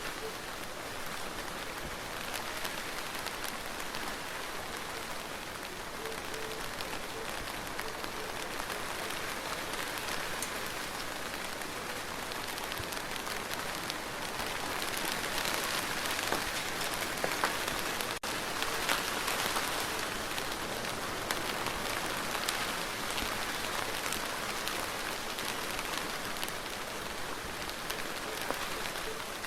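Steady rain falling on a surface, with many individual drops heard as small clicks, growing a little heavier about halfway through.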